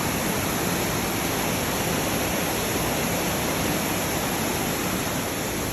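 Waterfall rushing in a rock gorge: a steady, even noise of falling water that does not change.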